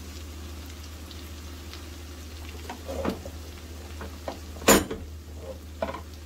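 Mustard-greens saag frying in ghee and tomato-onion masala in a frying pan, a steady sizzle with a low hum underneath. A spatula stirs and taps against the pan a few times, with one sharp, loud knock a little before five seconds in.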